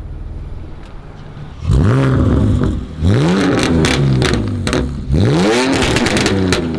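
BMW E46 330i's M54 inline-six, exhausting through catless headers and a muffler delete, idles and is then blipped three times, each rev rising and falling. Pops and bangs crackle on each overrun, most densely after the third rev, from a tune that adds pops and bangs when the AC is off.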